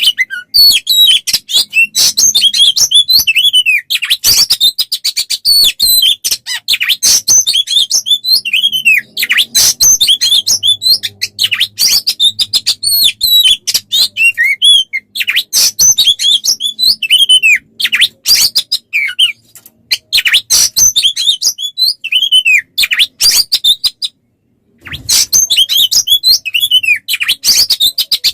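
Songbird song recording used as masteran to train Oriental magpie-robins (kacer): a fast, dense run of chirps, clicks and short falling whistles. It breaks off for about a second near the end, then resumes.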